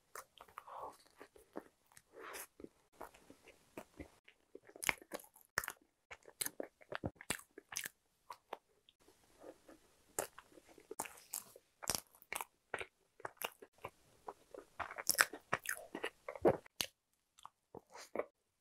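Close-miked chewing and biting of soft cream-filled bread, a string of short sharp mouth clicks and smacks with brief quiet gaps between.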